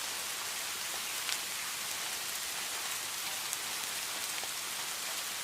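Steady heavy rain falling, an even hiss with scattered sharper drop hits.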